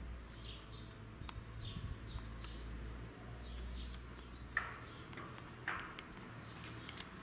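Small birds chirping in short, quick calls, with two louder chirps a little past halfway, over a low rumble that stops about four seconds in; a few sharp clicks.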